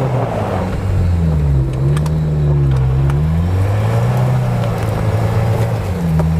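Four-wheel-drive off-roader's engine running hard under load, its pitch dipping and rising a few times as the revs are worked up and down on a snowy hill climb.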